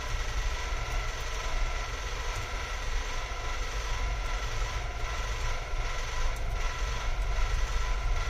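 Steady whirring machine hum, like a small motor or fan, with a low rumble underneath and a few constant whining tones, running evenly throughout.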